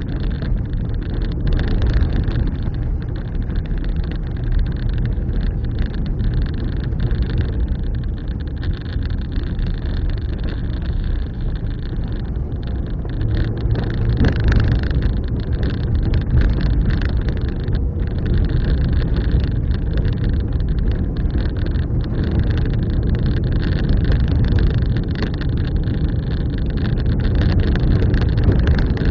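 Car driving along a road: a steady low rumble of engine and tyre noise that swells and eases slightly.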